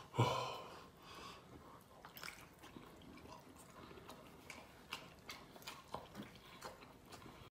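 A short louder sound right at the start, then faint chewing and lip-smacking: scattered small wet mouth clicks, a few to the second.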